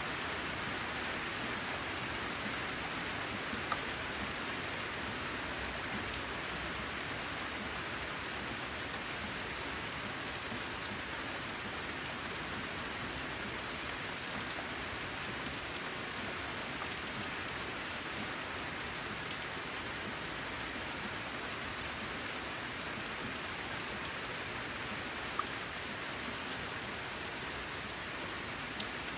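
Steady, even rain falling, with scattered sharper ticks of single drops striking close by.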